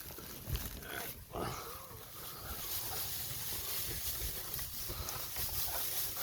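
A dog grunting and snuffling while digging about in loose straw, with the straw rustling; a short, faint whine-like glide comes about a second and a half in.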